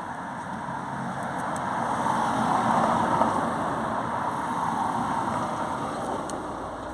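A road vehicle passing by, its tyre and engine noise swelling to a peak about three seconds in and then fading away.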